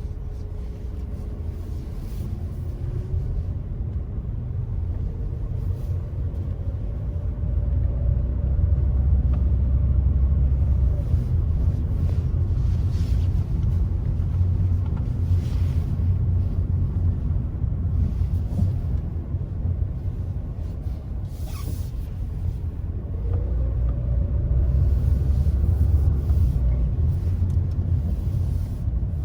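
Car on the move: a steady low rumble of engine and tyre noise. It swells louder twice, and the engine note rises as the car speeds up, a few seconds in and again near the end.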